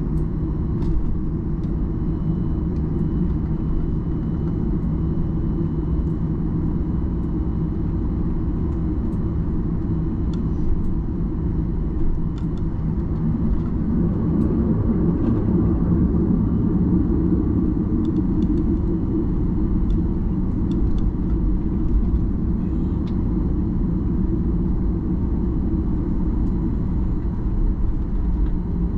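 Cabin noise inside a Boeing 737-800 on the ground before takeoff: a steady low rumble from its CFM56 engines with a steady low hum, growing a little louder about halfway through, with a few faint ticks and rattles.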